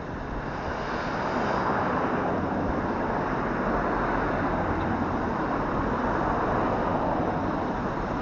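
A motor vehicle running close by: a steady rush of engine and road noise that swells about a second in and then holds.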